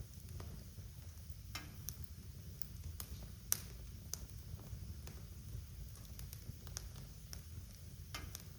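Wood fire crackling in a fireplace: irregular sharp pops and snaps over a low steady rumble, with one louder pop about three and a half seconds in.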